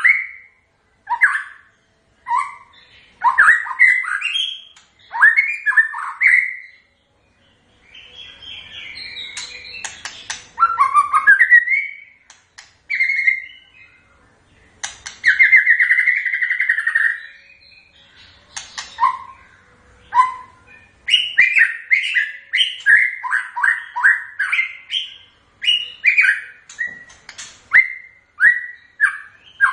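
White-rumped shama (murai batu) singing: short phrases of varied, gliding whistled notes separated by brief pauses. About halfway through there is a longer rapid warble, and toward the end the phrases come quickly one after another.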